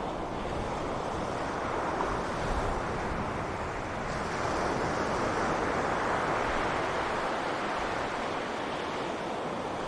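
Sea surf washing onto a beach, a steady rushing noise that swells gently as a wave comes in about halfway through, with some wind.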